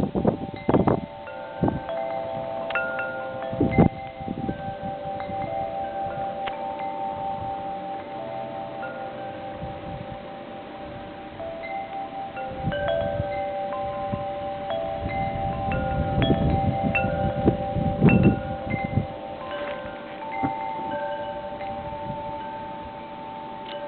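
Wind chimes ringing continuously, many overlapping tones struck one after another, in gusting blizzard wind that buffets the microphone in low rumbles, strongest in a run of gusts about two-thirds of the way through.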